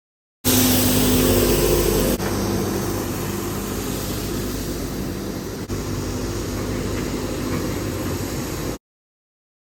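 A loud, steady mechanical drone with a low rumble and a few held tones. It breaks sharply about two seconds in and again about five and a half seconds in, then cuts off abruptly near the end.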